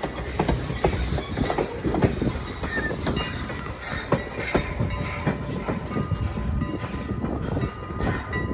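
Railroad train rolling past, its wheels clacking over the rail joints in a run of irregular sharp clicks over a steady rumble.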